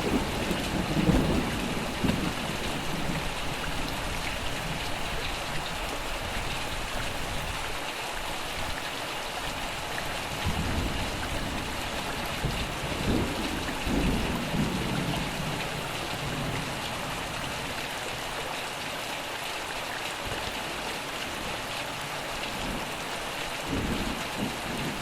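Steady rain falling, with thunder rumbling in low rolls: once at the start, again through the middle and briefly near the end.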